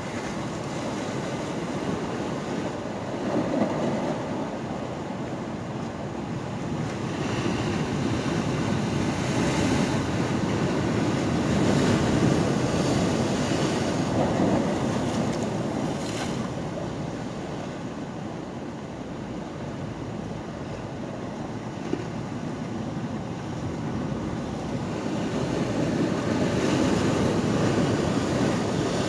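Ocean waves washing in, the surf swelling and easing in slow surges, with wind buffeting the microphone.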